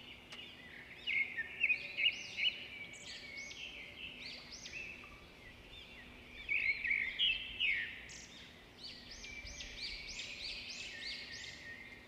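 Songbirds chirping: a continuous run of quick, short arching notes, louder in a couple of spells.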